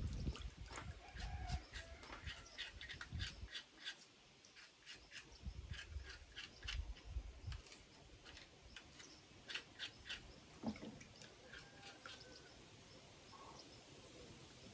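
Many quick, light clicks or taps at an irregular pace, thinning out after about ten seconds. There are brief faint bird chirps and a few low rumbles in the first half.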